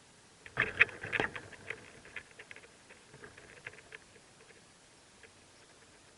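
Rustling and scratching inside a mockingbird nest holding four-day-old nestlings. A burst of loud scuffs comes about half a second in, followed by scattered light ticks that die away a few seconds later.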